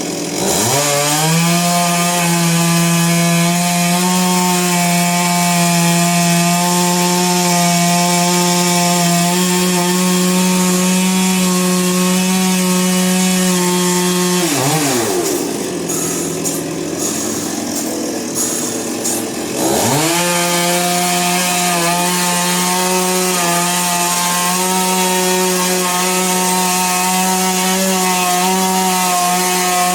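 Sawmill saw's motor running hard at a steady pitch. About halfway through the pitch falls away, it runs lower for some five seconds, then it winds back up to the same steady speed.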